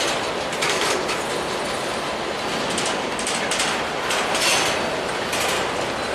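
Freight train cars rolling past, their wheels clacking irregularly over the rail joints above a steady rumble of the rolling train.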